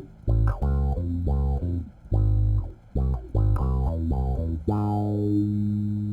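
Electric bass played through an AmpMaster Woodcraft Qtron/Mutron-style envelope filter pedal set to low pass, with the bass's treble all the way up and the strings hit hard. A run of short notes with brief gaps ends on one note held for about a second and a half near the end.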